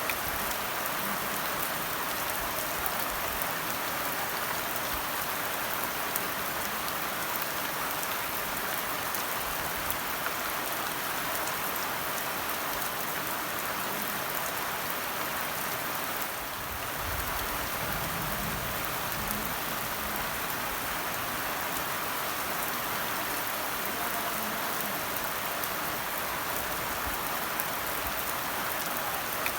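Steady rain falling and pattering on surfaces, an even hiss with fine scattered drop ticks. The rain eases briefly about halfway through, with a faint low rumble.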